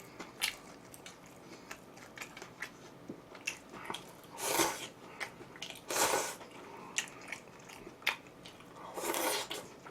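Close-miked eating: chewing, with many small wet mouth clicks. Three louder half-second noisy sounds come about four and a half, six and nine seconds in.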